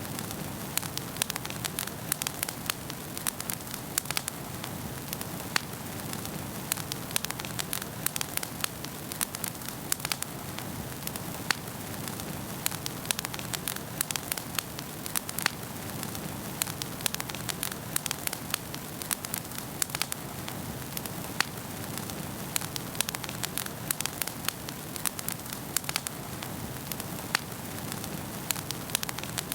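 Wood fire burning in a fireplace, with a steady hiss and frequent irregular crackles and pops.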